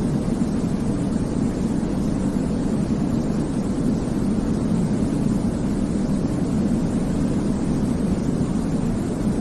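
Steady sleep-aid white noise: an even, deep rushing sound with most of its weight in the low range, unchanging throughout.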